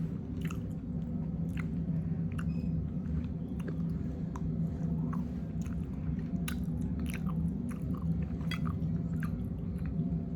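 A person chewing food with wet, open-mouthed smacking: a steady run of short mouth clicks, over a steady low hum.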